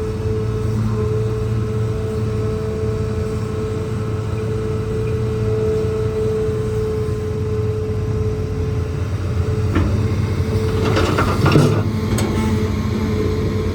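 Hitachi ZAXIS200 excavator's diesel engine running steadily with a constant hum and whine; from about ten seconds in, a burst of scraping and clatter from the rock work.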